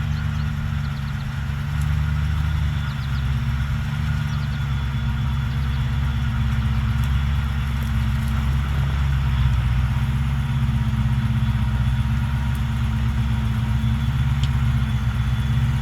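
Off-road truck engine running steadily at low revs, a low rumble with a few faint clicks over it.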